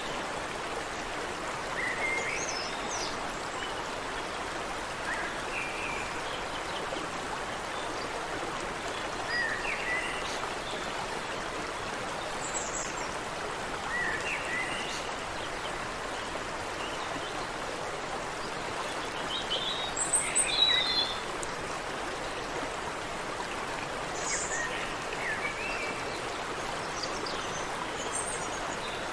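Water running steadily in a stream, with small birds giving short chirps every second or two. A brief cluster of louder calls about twenty seconds in.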